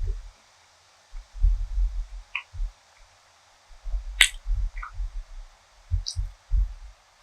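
Close-miked chewing of food in three bursts, with deep muffled thumps, short wet mouth clicks, and one sharp click a little past four seconds in that is the loudest sound.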